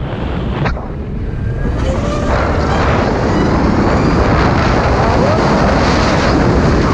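Wind rushing over the microphone, building from about two seconds in, with the faint rising whine of a Zero all-electric motorcycle's motor as it picks up speed.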